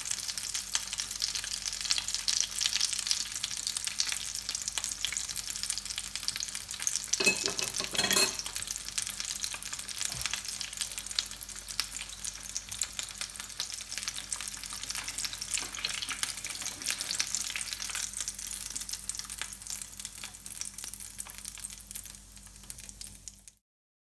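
A breaded bread-and-potato sandwich sizzling and crackling in hot oil in a frying pan, with a brief louder clatter about seven seconds in. The sizzle slowly weakens and cuts off suddenly near the end.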